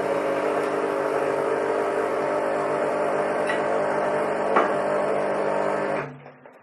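Espresso machine's pump running with a steady hum, cutting off suddenly about six seconds in.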